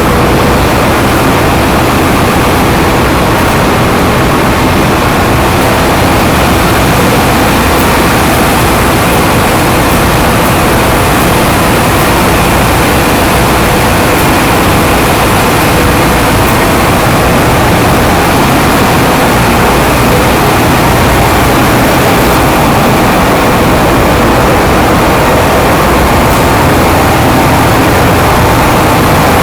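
Ship's engine-room machinery running: a loud, steady, unchanging din of the diesel engines and auxiliary machinery, with a steady hum running through it.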